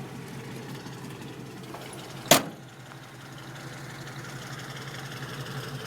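1965 Chevy pickup's 350 V8 idling steadily, with one sharp clack about two seconds in.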